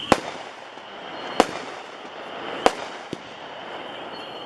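A 15-shot 200-gram aerial repeater cake (Lace Combustion by Winda) firing: three sharp bangs about 1.3 seconds apart and a fainter one just after, over a steady background hiss.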